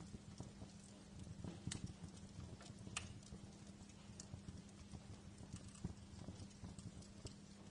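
Wood fire crackling in a fireplace: irregular sharp pops and snaps, a few louder ones near the start, over a low steady hum.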